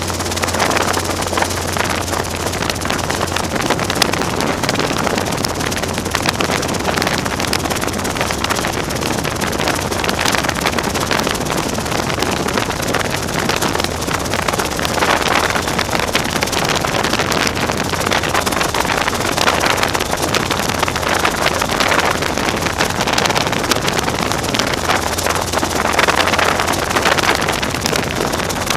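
Robinson R22 helicopter running steadily, its engine and rotor noise a dense, even rush over a low hum.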